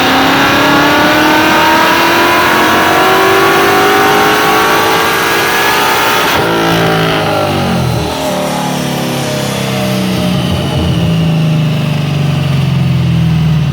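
A supercharged 2011 Ford Mustang GT's 5.0-litre V8 on a chassis dyno makes a full-throttle pull, revs climbing steadily for about six seconds. Then the throttle closes and the revs fall away quickly, settling to a low rumble.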